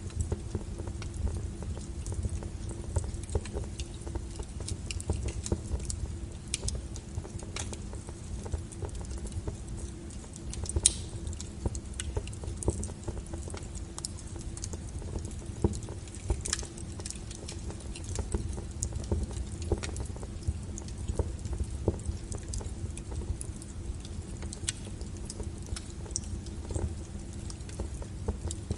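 Wood fire burning, with frequent small crackles and a couple of louder pops about eleven and sixteen seconds in, over a low steady rumble.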